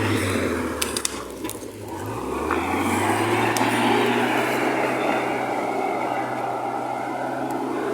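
UAZ-452 'Bukhanka' van's engine running under load off-road. The revs dip about a second in and pick back up after about two and a half seconds, then hold steady.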